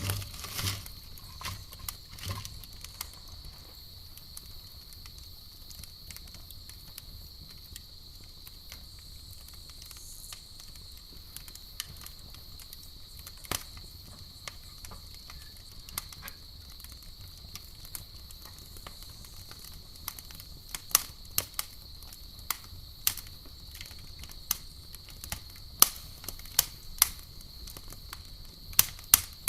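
Campfire crackling with sharp, irregular pops, sparse at first and more frequent in the last third, over a steady high-pitched chirring of crickets.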